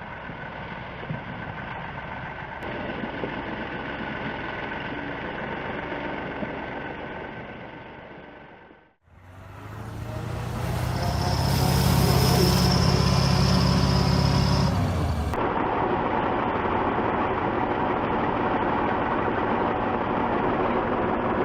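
Heavy truck engines running in a series of cut-together clips. A steady engine sound fades out about nine seconds in, then a louder, deeper engine runs for about five seconds before an abrupt cut to another steady engine sound.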